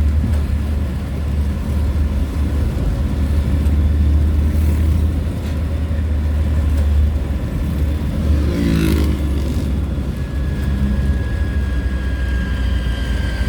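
A vehicle driving on the road: a steady low engine and road rumble. About nine seconds in, a brief sound falls in pitch, as of another vehicle passing.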